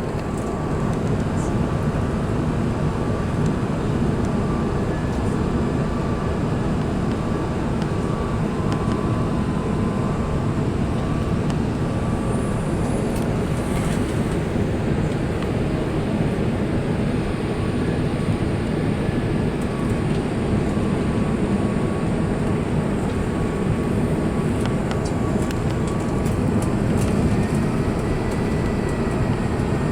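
Steady cabin noise inside an Airbus A380: an even rumble and rush from the engines and airflow, with faint steady whining tones over it.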